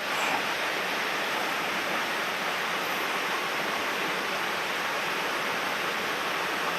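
Mountain stream water rushing over rocks, a steady unbroken rush.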